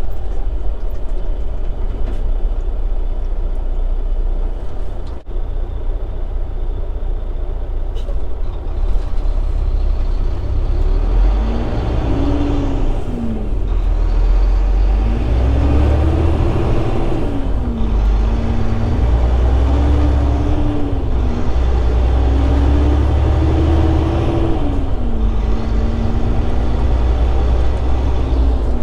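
Semi truck's diesel engine heard from inside the cab, running steadily, then from about a third of the way in climbing in pitch and dropping back about five times as it shifts up through the gears while pulling uphill, before settling at a steady speed near the end.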